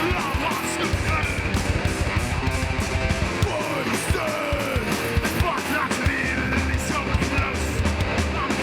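Live hardcore band playing an instrumental passage: distorted electric guitars with bending notes, bass, and driving drums with frequent hits.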